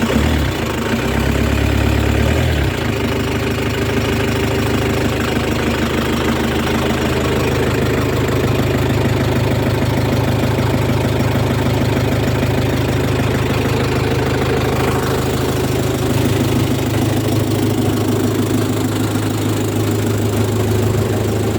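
1989 Ford Transit's 2.5-litre diesel 'banana engine' running at a steady idle, a little heavier in the first couple of seconds.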